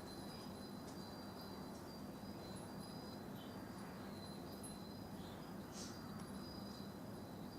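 Faint background ambience with no one present: a steady low hum under two thin, steady high-pitched tones, with a few brief high chirps scattered through it, the clearest almost six seconds in.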